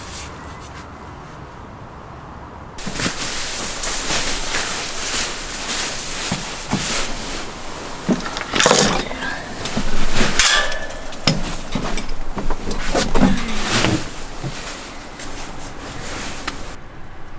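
Strong gusty wind with many sharp knocks and rattles, starting suddenly about three seconds in and cutting off abruptly near the end.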